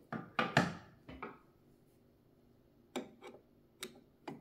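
Short clicks, knocks and scrapes of hands and a screwdriver working on the metal stitch plate and screws of a vintage Kenmore sewing machine. A quick cluster comes in the first second and a half, then three single knocks later.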